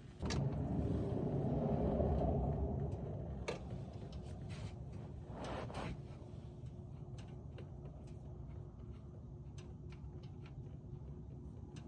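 Engine oil pouring from the F-150's opened drain plug into a drain pan: a steady rush that starts just after the opening and slowly weakens as the flow eases. Light clicks and knocks come through the second half.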